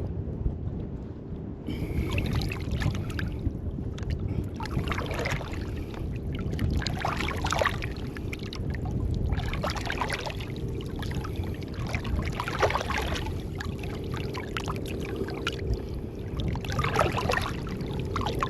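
Water sloshing and splashing in surges every two to three seconds, over a steady low rumble of wind on the microphone.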